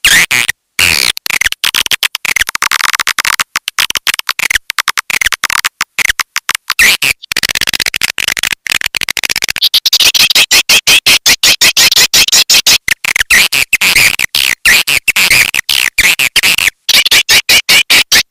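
Swiftlet lure call recording: a loud, dense stream of rapid, high chirps and twitters from swiftlets, chopped into many short sounds with gaps between them. It grows busier and louder from about ten seconds in.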